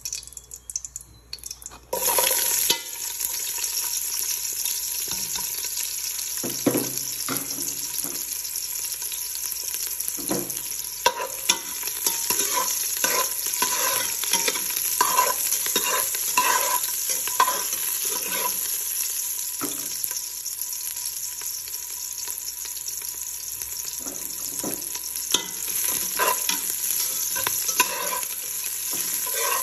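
Chopped garlic and onion sizzling in hot oil in a metal pot while a metal spoon stirs, with frequent clicks and scrapes of the spoon against the pot. The sizzle starts suddenly about two seconds in, as the garlic and onion go into the oil.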